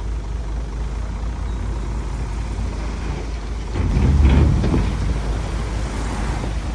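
Heavy earthmoving machinery with its diesel engine running in a steady low rumble, swelling louder for about a second midway.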